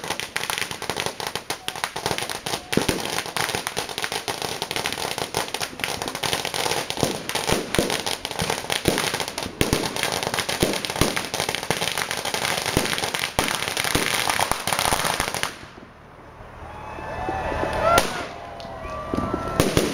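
Fireworks display: a dense, rapid barrage of crackling and bangs for about fifteen seconds that stops suddenly, then after a short lull a single sharp bang and more bangs near the end.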